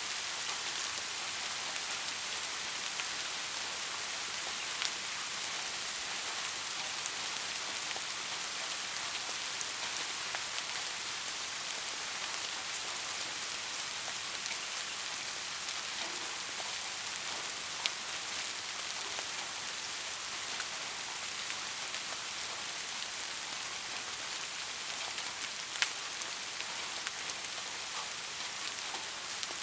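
Steady rain falling, an even high hiss dotted with small drop ticks. A few louder single drips stand out, the last a sharp one near the end.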